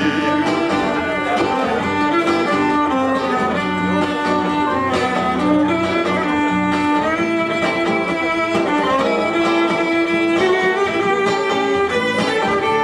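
Violin playing a melody of held notes over guitar accompaniment: an instrumental break between verses of a song.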